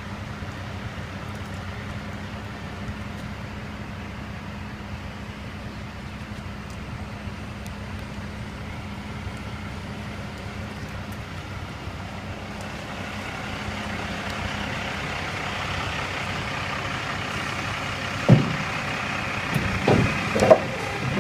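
Diesel engine of a dump truck running steadily. About two-thirds of the way in, the level rises and a higher-pitched whine joins it. Near the end come several sharp, loud knocks.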